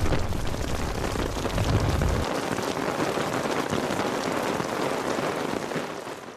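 Steady heavy rain falling, an even hiss of drops with a low rumble under it for the first two seconds.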